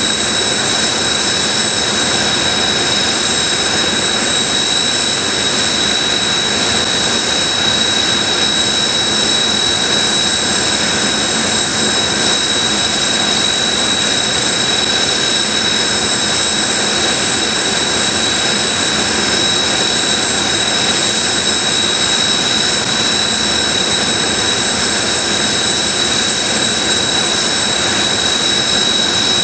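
Several Kawasaki T-4 jet trainers' IHI F3 turbofan engines idling on the ramp: a loud, steady jet rush with a constant high-pitched whine.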